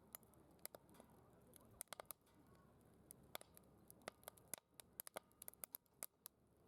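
Faint wood fire crackling in a DOD Mecha Moe Fire secondary-combustion fire pit: frequent irregular sharp snaps and pops over a low steady hiss of the flames.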